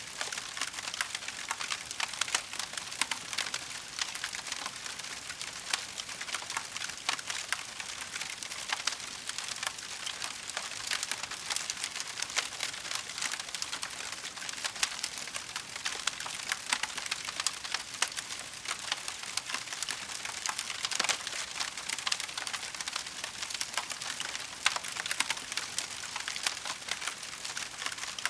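Wood fire crackling in a fireplace: a dense, steady stream of sharp small pops and snaps over a soft hiss.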